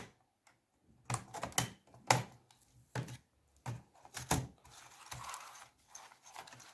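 Laptop keyboard being pried out of its plastic retaining clips: a series of sharp plastic clicks and snaps, irregularly spaced, then softer scraping and handling noise about five seconds in.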